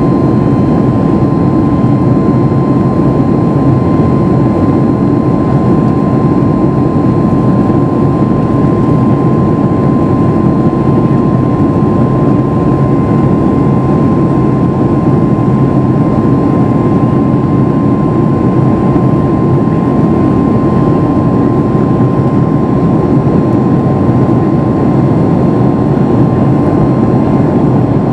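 Steady jet-airliner cabin noise inside a Boeing 737 MAX 8: a deep, even drone of its CFM LEAP-1B turbofans and airflow, with a thin steady whine over it.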